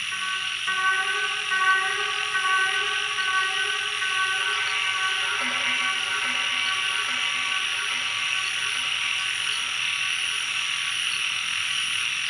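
Ambient electronic music: slow, held synth notes that shift to new pitches about five seconds in, over a steady hissing chorus of frogs and night insects.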